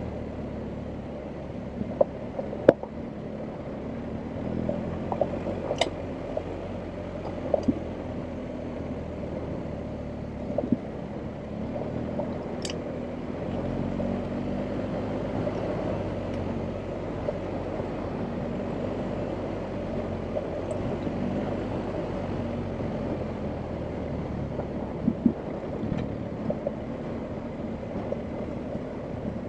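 BMW R1250GS Adventure's boxer-twin engine running at low, fairly steady revs while riding off-road, with scattered sharp knocks and clicks over it.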